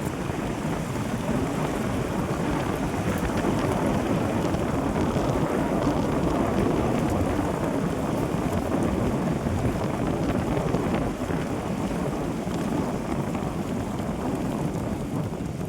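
Steady rumbling noise of a vehicle driving, with wind buffeting the microphone.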